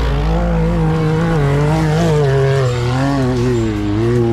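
Side-by-side UTV engine running hard, its pitch rising and falling as the throttle works up and down.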